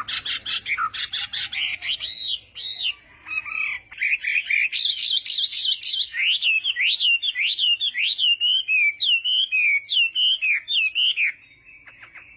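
Chinese hwamei (melodious laughingthrush) singing a loud, varied song: quick chattering notes first, then a run of repeated whistled slurs at about five a second. The song stops about a second before the end.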